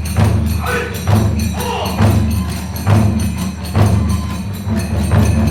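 Kagura hayashi: large and small taiko drums beating a steady pulse of about one stroke a second, with tebyōshi hand cymbals clashing over them.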